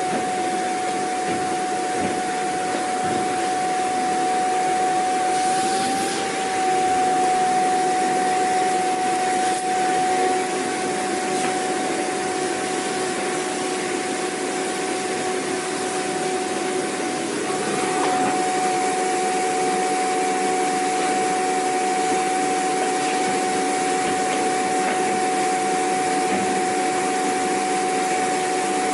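Vacuum cleaner running steadily: a constant motor whine over an even rush of air, its tone shifting slightly about two-thirds of the way through.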